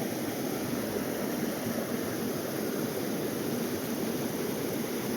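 Mountain creek water rushing over rocks, a steady, even sound with no breaks.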